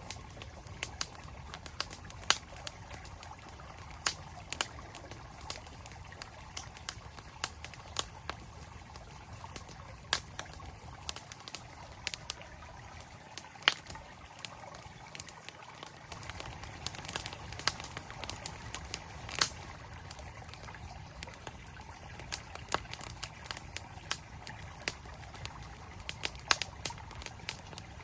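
Campfire crackling, with sharp irregular pops and snaps several times a second, over the steady rush of a flowing stream.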